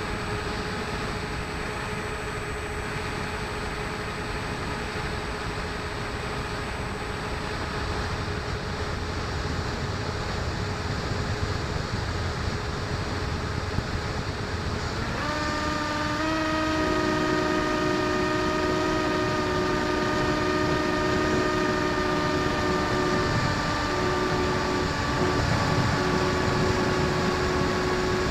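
The Bixler 1.1's electric motor and propeller whining steadily under a rush of wind on the microphone. About halfway through, the whine steps up in pitch and a second, lower tone joins it.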